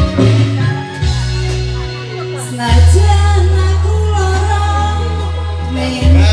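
A singer's voice over live band accompaniment, with a deep bass note held through the second half.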